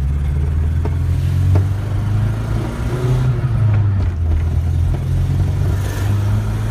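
1981 Volkswagen Rabbit pickup's engine pulling in gear while driving, heard from inside the cab as a steady low drone that swells and dips slightly. The engine has a small stutter under throttle, which the owner hears as a brief cutout between about 3,000 and 4,000 rpm.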